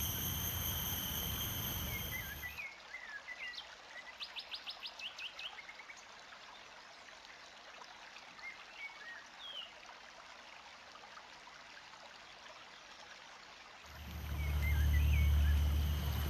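Wild birds calling over quiet outdoor background: a few short chirps, then a quick run of about seven evenly spaced notes, and a single call a few seconds later. At the start and again near the end, a loud low rumble with a steady high whine covers them.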